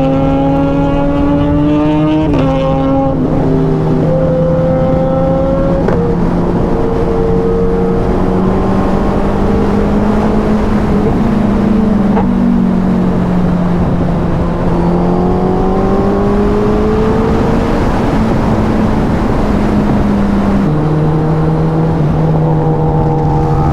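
Superbike's inline-four engine running while riding at cruising speed, over a steady rush of noise. The engine note creeps slowly up and down and drops in steps a few times, about two seconds in, around six seconds, and near the end.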